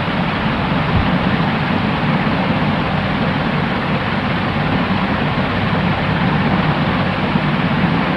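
Steady white noise: an even, unchanging rush, fullest in the low and middle range, with a soft low rumble underneath and no high hiss on top.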